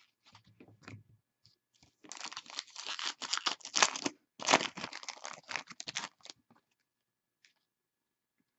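Foil trading-card pack wrapper crinkling and tearing as it is opened, in two stretches of rustling broken by a short pause about four seconds in.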